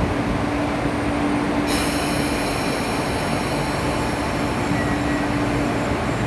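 MTR East Rail Line MLR (Metro-Cammell) electric multiple unit pulling out of a station platform: steady train noise and a hum, joined about two seconds in by a high, several-toned whine that lasts until near the end.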